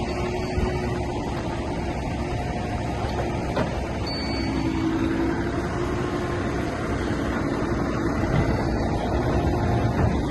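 Heavy diesel earthmoving machinery running steadily, growing a little louder near the end.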